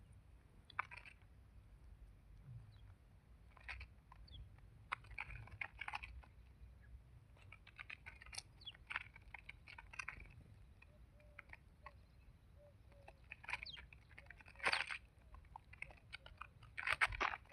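Scattered crunchy clicks and rustling with a few short high chirps from a small bird, likely a sparrow, growing busier toward the end, with the loudest bursts about fifteen seconds in and just before the close.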